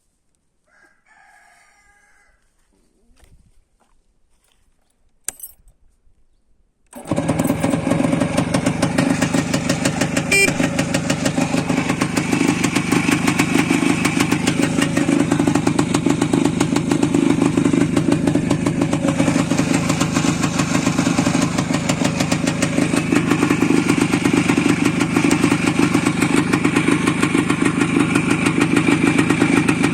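Tula TMZ motorcycle's single-cylinder two-stroke engine starting abruptly after several quiet seconds, then idling steadily with a fast, even pulsing.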